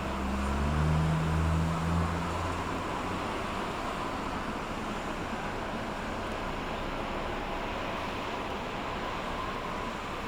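A passing ship's engine droning low, loudest and shifting in pitch over the first two or three seconds, over a steady wash of water and wind on the microphone.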